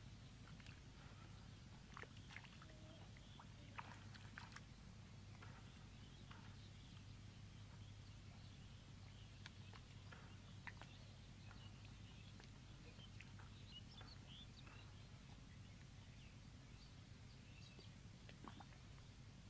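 Near silence: a faint steady low hum with scattered soft clicks and a few brief high chirps.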